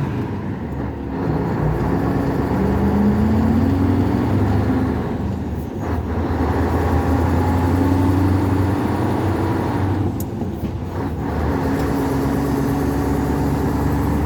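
Scania 143 V8 diesel truck engine pulling under load, its note climbing and holding. Its sound drops briefly about half a second in, near six seconds and near ten seconds, as gears are changed on a climb.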